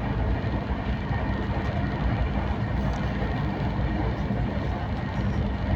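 A moving passenger train, with a steady low rumble from the running carriage.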